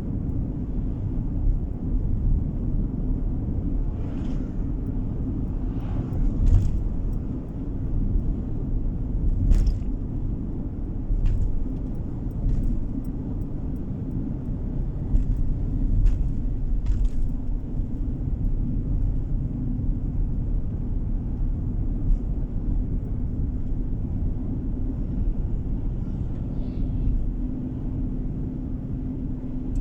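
A car driving along the road, heard from inside the cabin: a steady low rumble of tyres and engine, with a few brief clicks or knocks from bumps.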